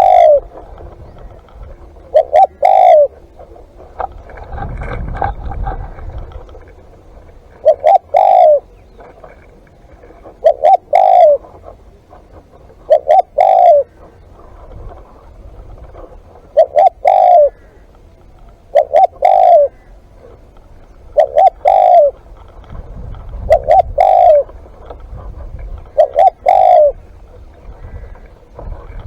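Spotted dove cooing over and over, a short phrase roughly every two and a half seconds, with a low rumble twice between calls.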